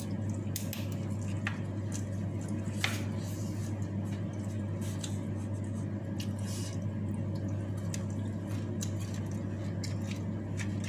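Close-miked eating sounds of raw leafy vegetables eaten by hand: wet, squishy chewing with scattered small crisp clicks and rustles. A steady low hum runs underneath.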